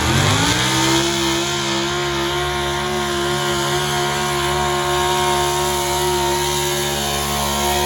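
A truck engine revs up sharply within the first second, then holds at high, steady revs.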